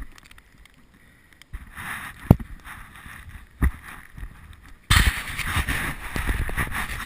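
Wind rushing over the microphone of a camera riding on a moving bicycle, with sharp knocks and rattles from the bike; the rushing gets much louder about five seconds in.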